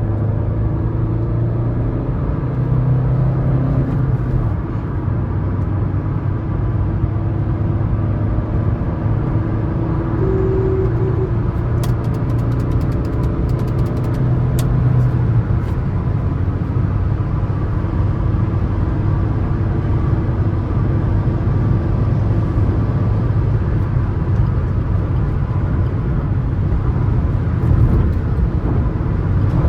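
Suzuki S-Cross 1.3 DDiS four-cylinder turbodiesel engine and tyre noise at steady highway speed, a loud low drone. A brief run of sharp clicks comes about twelve seconds in.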